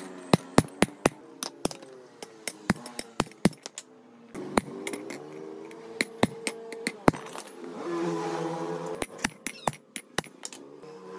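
Irregular sharp hammer taps on metal, several a second, with a faint pitched hum underneath.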